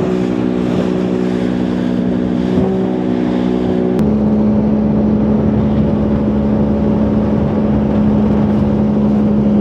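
Boat motor running with the boat under way, a steady engine drone over a rush of wind and water. About four seconds in, the engine note changes abruptly to a single steadier tone.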